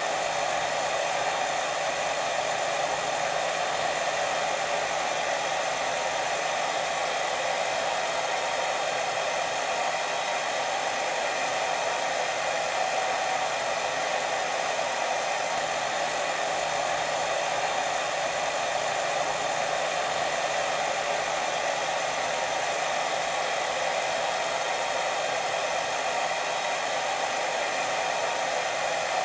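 Steady white noise for sleep: an even, unbroken rushing hiss that does not change.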